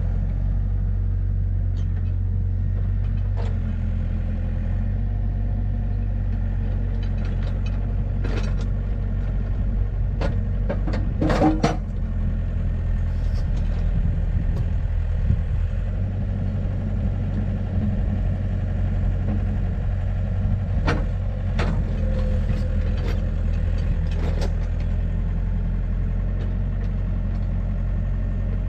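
Engine idling steadily, with a few scattered knocks and clanks, the loudest cluster about eleven seconds in.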